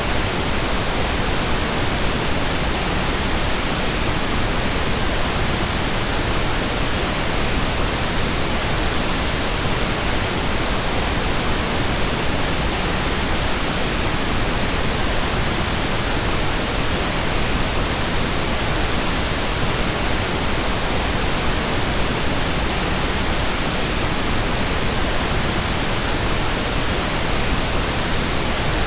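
Steady pink noise: an even, unchanging hiss spread across all pitches, with no tones or events in it.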